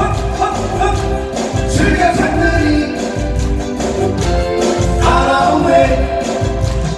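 Live song over a loud backing track with strong bass, sung by a male vocal duo.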